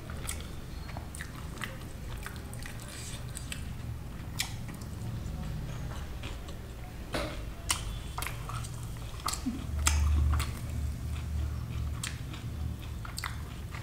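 A person chewing and biting mouthfuls of flaky lachha paratha with paneer curry: many short wet mouth clicks and smacks, with a louder low thump about ten seconds in.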